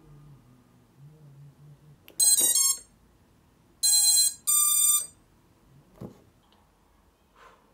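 FPV drone's brushless motors playing the ESC power-up tones as the LiPo battery is connected: a quick run of rising beeps, then a lower and a higher beep about a second later. The second pair is the usual sign that the ESCs have picked up the receiver's signal.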